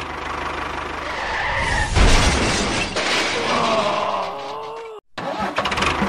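Tractor engine running, with a loud rough burst of noise about two seconds in that lasts about a second, then a few falling tones, and a brief cut-out near the end before the engine sound resumes.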